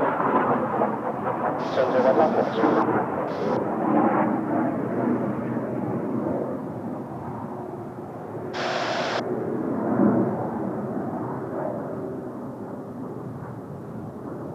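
Jet noise from Kawasaki T-4 trainers passing overhead, a broad rumble that slowly fades as the aircraft move away, with brief gusts of wind hiss on the microphone.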